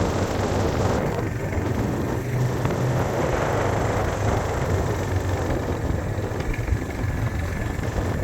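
Steady low drone of a running vehicle engine, with a hissing rush of noise over it.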